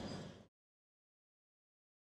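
Near silence: a rumbling, clinking rail-vehicle sound fades out about half a second in, leaving complete silence.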